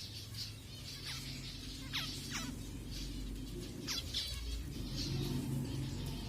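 Zebra finches chirping rapidly, with several quick calls sweeping down in pitch, over a low steady hum.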